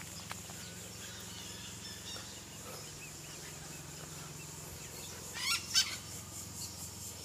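Birds calling faintly, with a louder burst of quick, high calls about five and a half seconds in, over a low steady hum.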